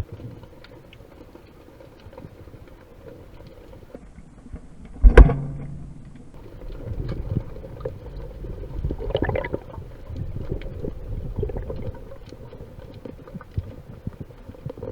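Stormy surge churning and rumbling against an underwater camera housing, with scattered knocks and one loud, sharp clack about five seconds in.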